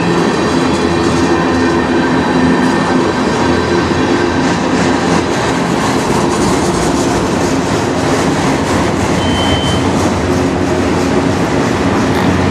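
Freight train cars, tank cars then autoracks, rolling past close by: a steady loud rumble of steel wheels on rail, with a brief high squeal about nine seconds in.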